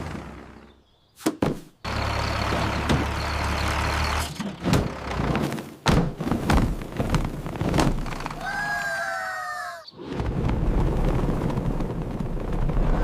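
Cartoon sound effects: a tractor engine running with a steady low rumble, then a run of knocks and thuds, a short warbling squeak, and the engine rumble again.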